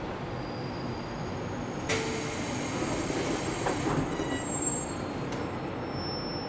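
JR Kyushu 813 series electric train running, heard from inside the passenger car as a steady rumble. About two seconds in a sudden hiss sets in for about two seconds, with high wheel squeal ringing on briefly after it.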